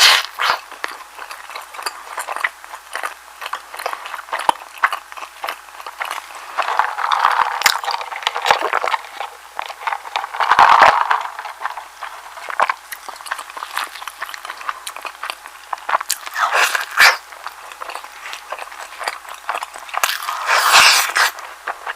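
Close-miked eating of a soft egg sandwich: chewing with wet mouth clicks and smacks, and a few louder bites spread through.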